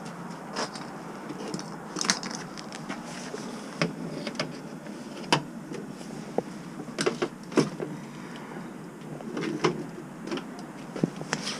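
Electric enduro bike with a hub motor clattering and knocking irregularly, a dozen or so sharp rattles and thumps over a steady bed of tyre and wind noise.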